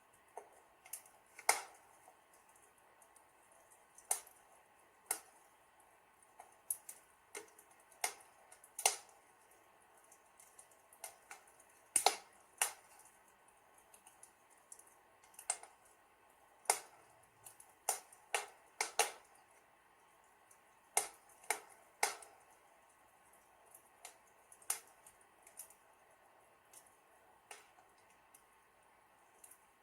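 Wood fire in a fireplace crackling: irregular sharp pops and snaps, some louder than others, over a faint steady hiss.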